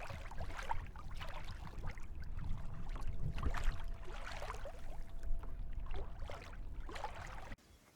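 Water splashing and sloshing around a kayak, over a low rumble, in uneven strokes; the sound cuts off abruptly near the end.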